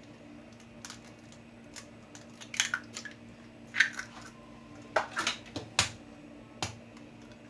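Cups and bowls knocking and clinking against an electric blender jar as batter ingredients are tipped in: several separate taps and scrapes, most of them in the second half, over a faint steady hum. The blender motor is not running.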